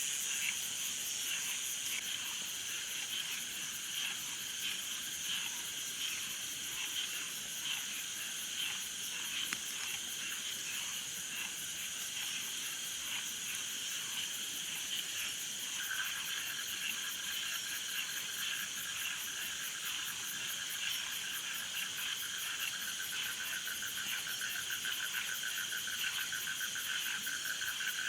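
Outdoor chorus of frogs and insects: steady high-pitched insect trilling with repeated frog calls. About halfway through, a lower, rapidly pulsing frog trill joins in and carries on.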